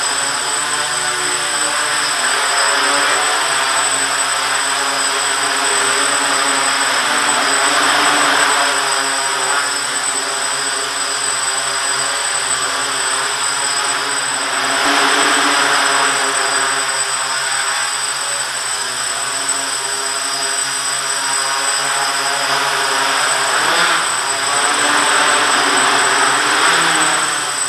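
Quadcopter's electric motors and propellers whirring steadily while it hovers, their pitch wavering up and down as the throttle changes. Near the end the pitch drops briefly, then the whir picks up again.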